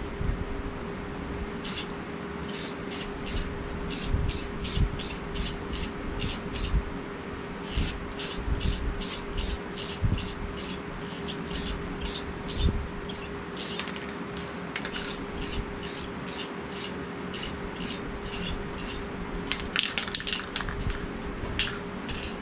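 Aerosol can of clear coat spraying in a long run of short bursts, about two a second, laying on a light coat.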